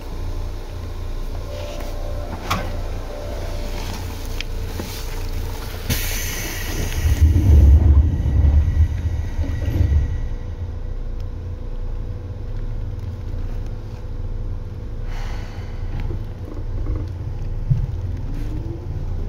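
Running noise inside a Seibu 2000-series electric train, set 2057F: a steady low rumble, with a brief hiss about six seconds in followed by a few seconds of heavier rumbling. Near the end the traction motors begin a rising whine as the train picks up speed.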